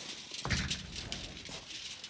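Shiba Inu chewing raw chicken wing tips, the bone crunching in quick, irregular clicks, with a louder crunch about half a second in.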